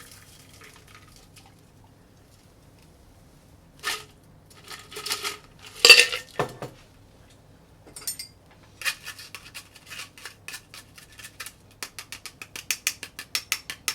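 Metal cocktail shaker and strainers clinking and knocking while a cocktail is fine strained into an iced glass: a few separate knocks, the loudest about six seconds in, then a quick run of light metallic clinks, several a second, near the end.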